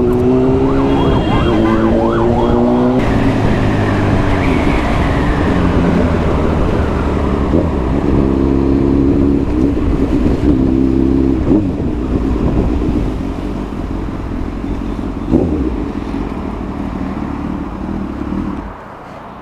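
Motorcycle engine heard from the rider's seat, running at road speed with its pitch stepping up and down as it rides and then slows to a stop. The engine sound drops away sharply near the end.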